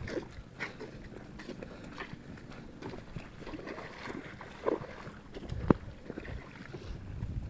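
Footsteps and rustling through dry leaves and brush on rough ground, a scatter of irregular crackles, with one sharp snap or knock near the end; wind rumbles on the microphone underneath.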